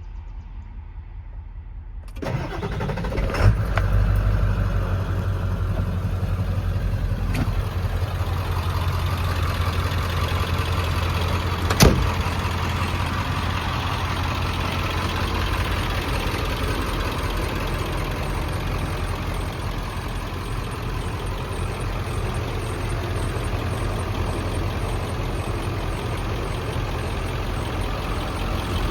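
1999 Ford F-450 Super Duty truck engine cranking and catching about two seconds in, then idling steadily. A single sharp click about twelve seconds in is briefly the loudest thing.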